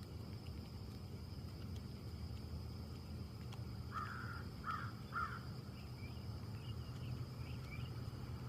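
A crow cawing three times in quick succession about halfway through, over a steady low rumble of outdoor background noise. Faint, higher bird chirps follow near the end.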